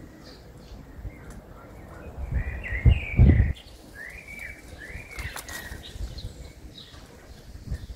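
Small birds chirping, with a run of quick rising-and-falling calls in the middle, over a low rumble that swells loud for about a second partway through.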